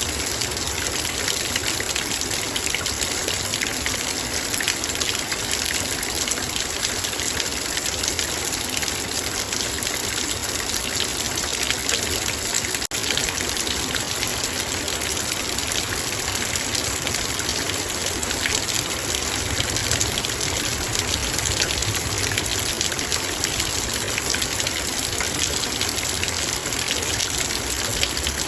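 Heavy rain falling on a metal bowl: a dense, steady patter of drops striking the metal over the constant hiss of the downpour.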